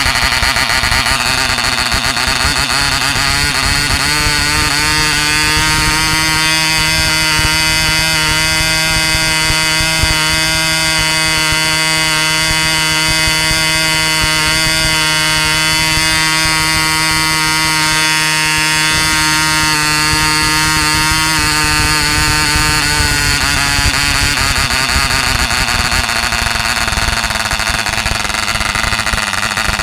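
KATIPO 1.49cc Mk1 model diesel engine running flat out with a 7x6 wooden propeller, a loud, high, buzzing note. Its pitch wavers, then steadies about four seconds in, and wavers and drops back after about twenty-two seconds.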